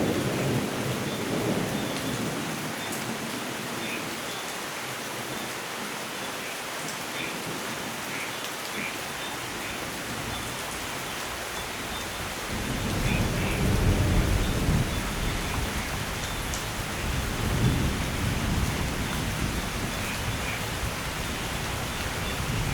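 Steady heavy rain hissing, with thunder rumbling low: a roll dies away in the first couple of seconds, then a long rumble swells about halfway through and keeps rolling.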